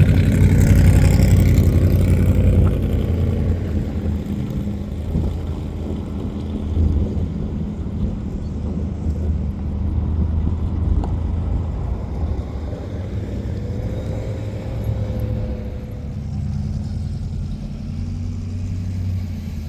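A car engine running, loudest in the first few seconds and then lower and steadier.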